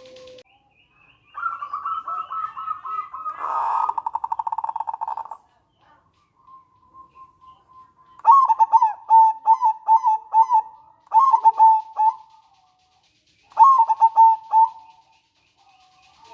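Zebra dove (local perkutut) calling. A quick run of notes breaks into a fast rattling trill, the 'nretek'. After a pause come two phrases of short, quick coo notes, the 'manggung' song.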